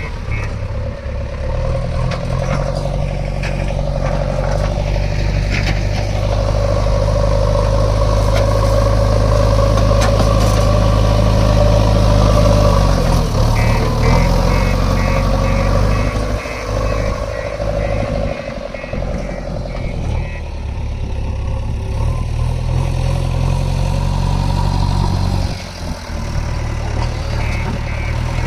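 Diesel engines of a JCB 3DX backhoe loader and tractors running at work, the engine note shifting as the load changes, with a short dip near the end. A rapid series of short high pips sounds about halfway through and again near the end.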